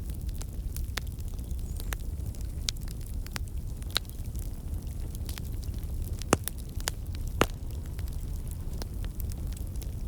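Wood fire crackling: a steady low rumble of burning with scattered sharp snaps, and a few louder pops about four, six and seven seconds in.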